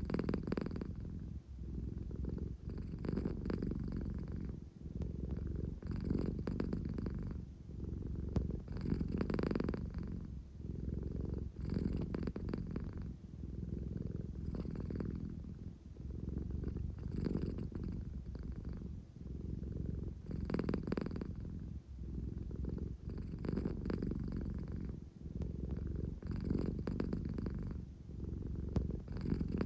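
American Shorthair cat purring steadily, the purr swelling and easing with each breath about every three seconds.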